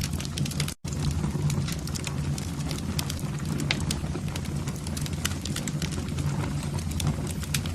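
Wood fire burning in a fireplace: constant sharp crackles and pops over a steady low rumble of flames, with a split-second dropout about a second in.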